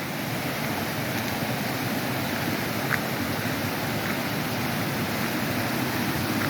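Floodwater rushing steadily down a creek swollen by heavy rain, an even roar of water.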